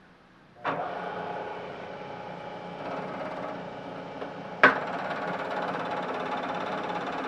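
Milling machine motor starting up less than a second in and then running steadily. A sharp click comes about two-thirds of the way through, after which the running is a little louder and brighter.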